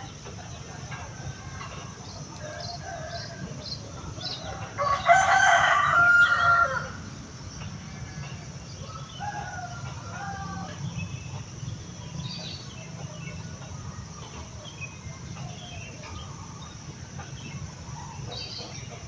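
A rooster crowing once, loud and about two seconds long, about five seconds in, with scattered short bird chirps and a steady low hum around it.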